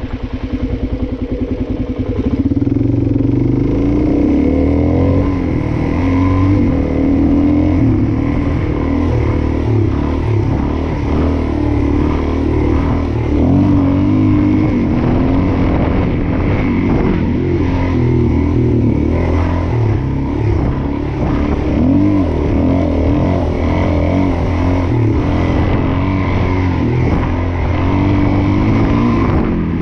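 Suzuki DR-Z400S single-cylinder four-stroke engine running while ridden off-road, its pitch rising and falling with the throttle. It gets louder about two seconds in.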